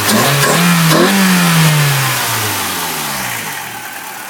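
Toyota AE86's 4A-GE four-cylinder engine, breathing out through a fart-can muffler with a silencer, being revved. The pitch climbs to a peak about a second in, then falls slowly back toward idle.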